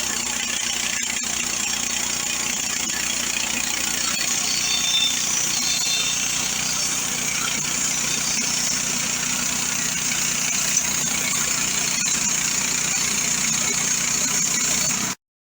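A Mechmaxx bandsaw mill's 420cc gas engine runs steadily under load as its band blade saws through hard shagbark hickory, with a constant engine hum and a strong high hiss from the cut. The sound stops abruptly near the end.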